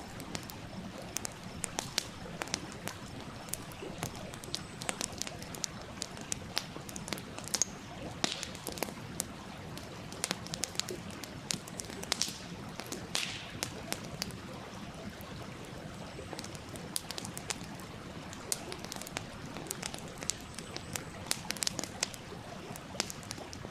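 Wood campfire crackling with frequent sharp pops and a few brief hisses, over the steady rush of a stream.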